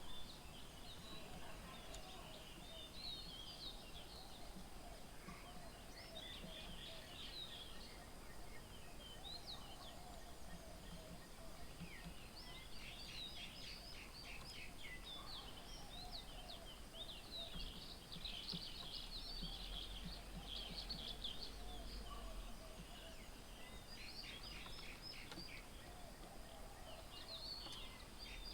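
Faint mixed birdsong: many small birds chirping and trilling in quick high notes throughout, busiest in the middle, with a lower call repeating now and then underneath.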